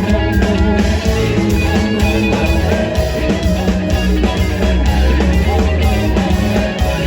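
Rock band playing an instrumental passage, with electric guitar, bass and drums, at a steady driving beat.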